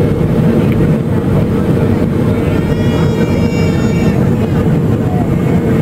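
Steady, loud cabin noise inside a Boeing 757 airliner: the rumble of the engines and airflow with a steady hum, and faint voices around three seconds in.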